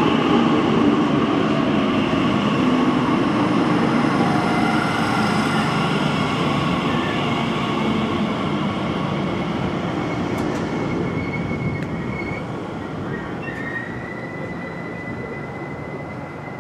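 Class 345 electric train running past on the track, its rumbling noise fading steadily as the last carriages go by. A thin, steady high squeal joins in about two-thirds of the way through.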